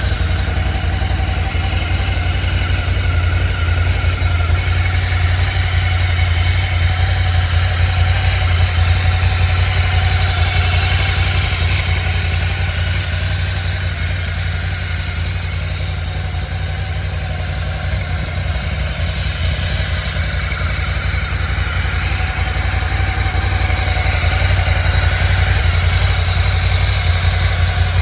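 2019 Ducati Scrambler Icon's air-cooled 803 cc L-twin engine idling steadily, with a deep, even exhaust note.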